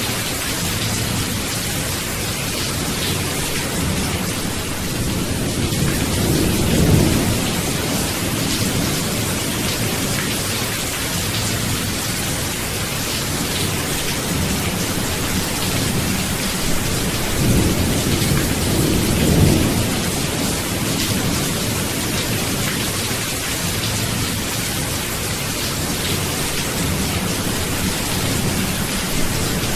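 Steady heavy rain with rolls of thunder: a constant hiss of rainfall, with low rumbles swelling about a quarter of the way in and again around two-thirds of the way through.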